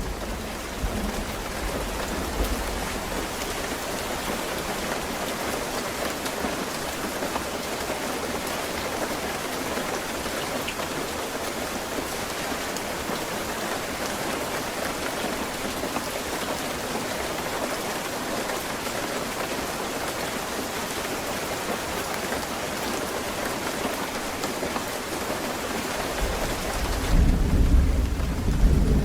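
Steady rain falling in a rainstorm. A low thunder rumble fades out in the first couple of seconds, and a louder roll of thunder comes in near the end.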